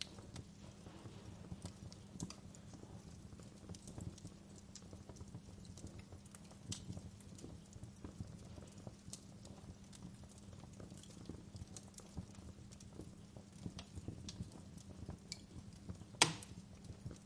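Wood fire crackling in a fireplace: scattered, irregular pops and snaps over a low steady rumble of burning, with one sharp, loud pop about a second before the end.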